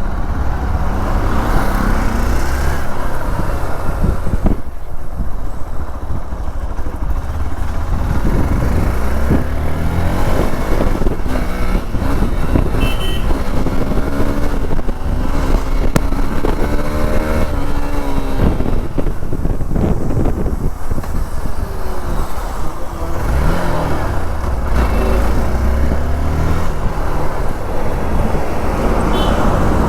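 Hero XPulse 200 single-cylinder motorcycle engine running while being ridden, its pitch rising and falling with throttle and gear changes, under a steady low rumble.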